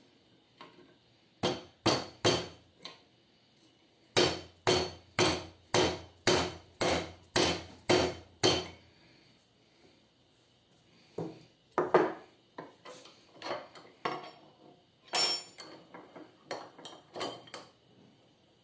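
Light hammer taps driving a new ball bearing onto the shaft of a Fujitsu inverter air conditioner's fan motor, seating it against the shaft clip. A few taps come first, then a run of about nine evenly spaced blows at about two a second, then lighter, irregular taps.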